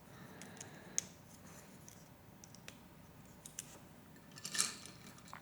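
Small plastic Lego pieces being handled and picked through: faint scattered clicks, a sharper click about a second in, and a short rustle near the end.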